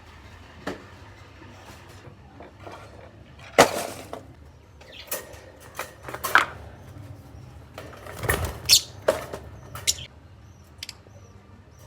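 Pet lovebirds moving about in their cage: irregular clicks, scratches and rustles, the loudest about a third of the way in and again past the middle, with a few faint short chirps near the end.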